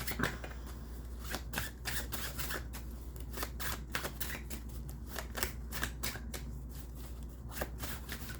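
Tarot cards being shuffled and handled: a run of irregular quick flicks and snaps, several a second, over a steady low hum.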